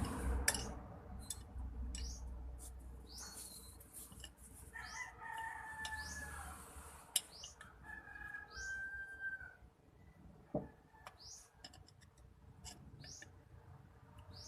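Bird calls: two longer pitched calls, about five and eight seconds in, among short rising high chirps. Scattered short clicks and knocks run through.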